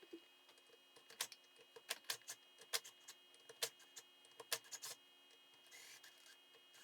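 Faint, irregular sharp clicks and taps of hand tools and small engine parts being handled during engine disassembly, about a dozen in a few seconds, then a short scraping rub near the end.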